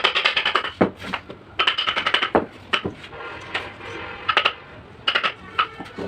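Rapid light hammer taps on a metal carving chisel cutting into MDF, about eight to ten strikes a second. Each strike rings at the same few pitches, and the taps come in short runs broken by brief pauses.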